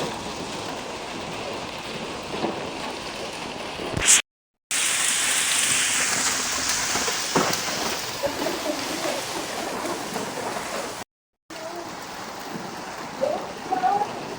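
Heavy rain pouring steadily. About four seconds in there is one sudden loud crack, and the sound cuts out completely twice for about half a second.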